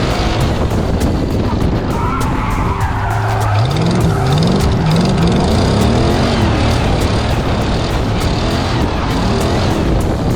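Drift car engine revving hard, its pitch rising and falling several times in quick succession about four seconds in, while the tyres skid across the tarmac.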